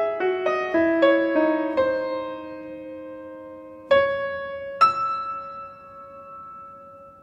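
Soft solo piano music: a phrase of notes about a third of a second apart slows into a held chord, then two single notes are struck about a second apart and left to ring and fade away.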